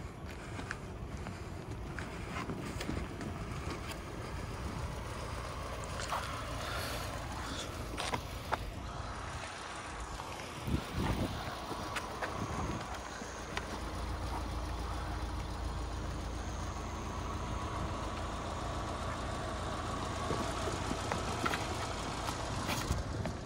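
Low steady rumble of an idling car, getting louder about halfway through, with scattered footsteps and scuffs on the road surface.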